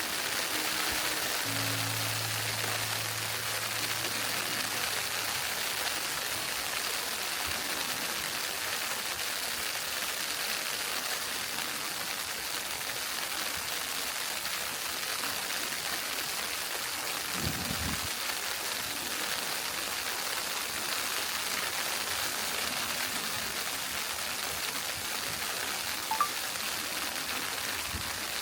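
Steady crackle and hiss of a wood-burning fireplace, with a low thump about seventeen seconds in and a sharp click near the end.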